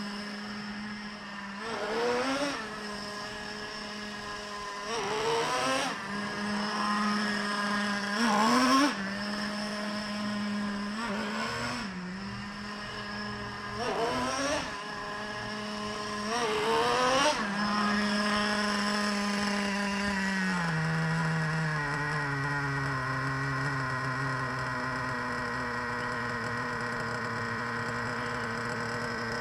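Traxxas 3.3 two-stroke nitro engine of an RC truck being run in, with about five short rising revs over its steady running. Around 20 seconds in it drops to a lower, steady idle.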